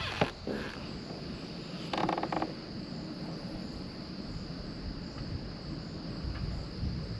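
Insects chirring steadily in a high, unbroken chorus, with a short clicking rattle about two seconds in.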